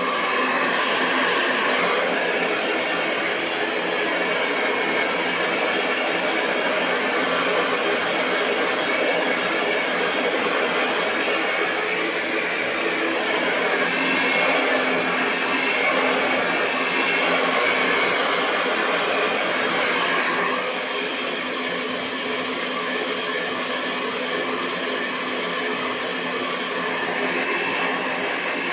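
Hair dryer running continuously: a steady rush of blown air over a low motor hum. It gets slightly louder just after the start and eases down a little about two-thirds of the way through.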